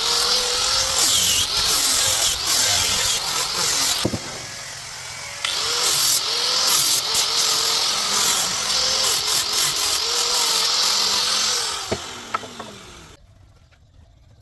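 Electric power tool working wood, running in two stretches with a short dip between them, its motor note wavering under load, then winding down near the end.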